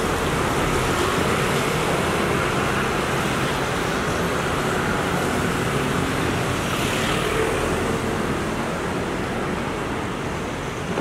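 Garbage truck's engine running amid steady street traffic noise, with another vehicle swelling past about seven seconds in.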